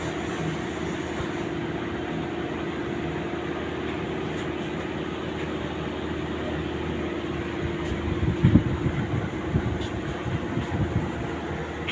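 Steady mechanical hum with one constant tone, and a cluster of low, uneven thumps from about eight to ten seconds in.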